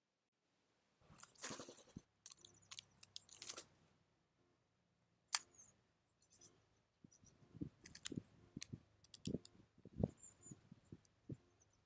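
Small animals feeding at a feeding place: irregular taps, scratches and cracking of seeds, with a few faint, short high bird chirps.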